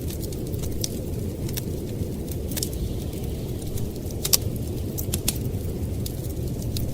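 Wood fire crackling and popping in a fireplace, scattered sharp snaps with one louder pop about four seconds in, over a steady low rush of blizzard wind.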